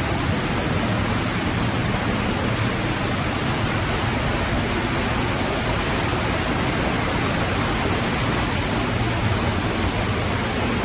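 Waterfall pouring into a cave: a steady, even rush of falling water.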